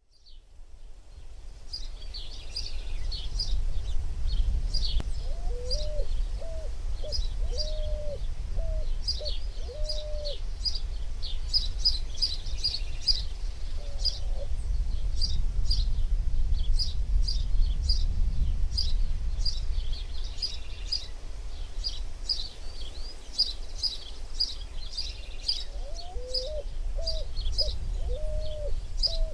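Birds chirping, many quick high calls overlapping throughout, with a lower call repeated in a short series of notes twice, over a steady low rumble. It fades in over the first few seconds.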